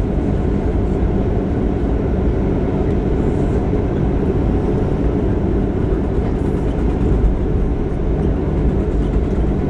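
Steady low rumble inside the cabin of a Boeing 737-700 taxiing after landing, its CFM56-7B engines at idle and the wheels rolling over the taxiway.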